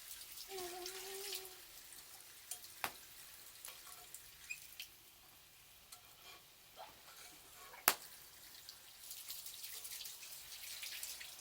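Wood campfire crackling, with scattered sharp pops and one loud snap about eight seconds in, over a faint hiss that grows near the end. A short wavering pitched sound comes in about half a second in.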